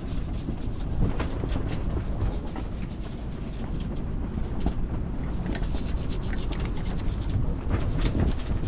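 Irregular rubbing and scraping with many small clicks and knocks: the removed anchor windlass motor being scrubbed and cleaned by hand.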